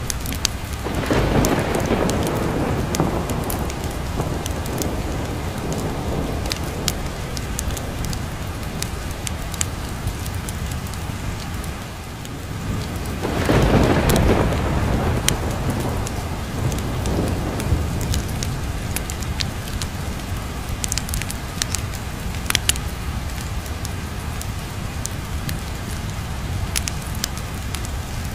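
Steady heavy rain with two rolls of thunder, one about a second in and one about halfway through, each swelling and dying away over several seconds. Scattered sharp ticks run through the rain.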